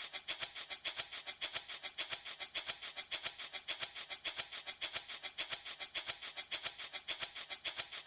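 Handmade baby rattle shaken steadily in a quick, even rhythm of several strokes a second. Each stroke gives a crisp, high rattle of small beads or grains.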